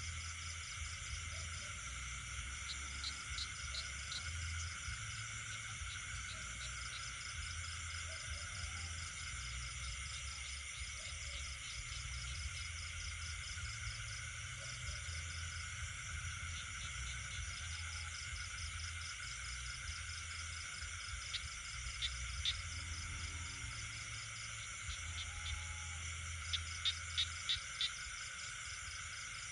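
Night chorus of crickets and other insects trilling steadily, with frogs calling in short runs of sharp, clicky croaks; the loudest is a quick run of about five croaks near the end.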